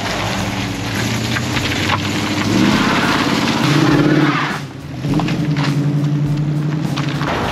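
Classic cars' engines pulling away, the last a red classic Ford Mustang coupe driving off: the engine note climbs a few seconds in, drops briefly, then holds a steady note as it goes.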